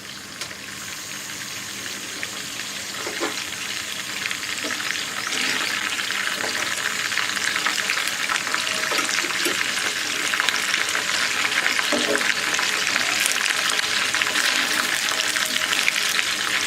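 Coated chicken pieces deep-frying in hot oil, with a crackling sizzle that grows steadily louder over the first several seconds as the flame is turned up, then holds. There are a few faint knocks along the way.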